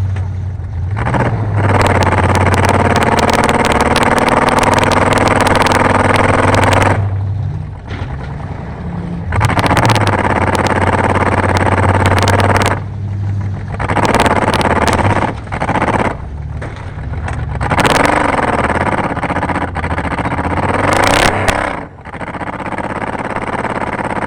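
Race car engine running hard at high revs, easing off and picking up again several times, with a dip and rise in pitch near the middle and scattered rattles and clanks.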